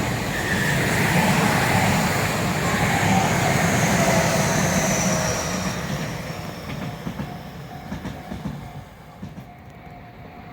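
Tobu Tojo Line electric train passing at speed, with a falling whine over the running noise, then fading away about six seconds in.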